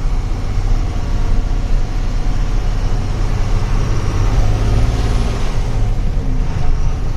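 Truck engine running steadily under way, with road noise heard from inside the cab.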